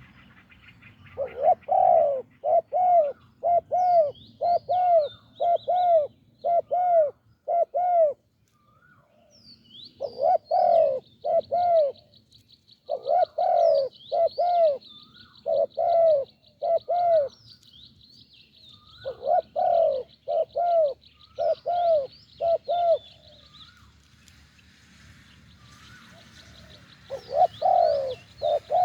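Spotted doves cooing: phrases of short rising-and-falling coos, about two a second, broken by pauses of a second or more. Faint high chirps from small birds and a thin, steady high buzz run in the background through the middle.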